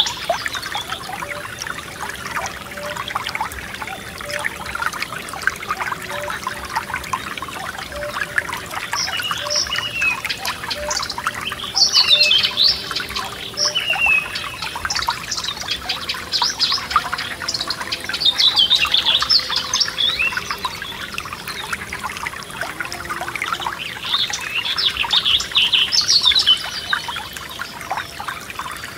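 Forest stream trickling and bubbling steadily, with songbirds singing short, high, quick phrases over it every few seconds.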